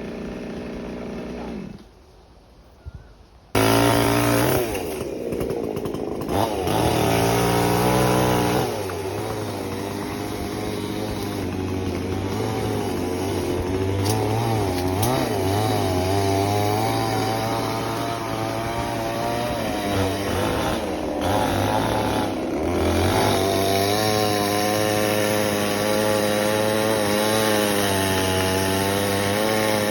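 Chainsaw engine running. It drops low for about a second and a half, then comes back loud about four seconds in and keeps running, its pitch rising and sagging as it cuts into the branches of a storm-damaged Manila tamarind tree.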